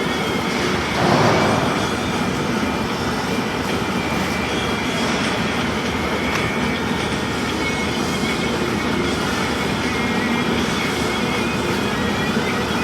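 Self-shielded flux-cored welding arc (Lincoln Innershield NR305 wire) crackling steadily during a weld pass, with a louder swell about a second in.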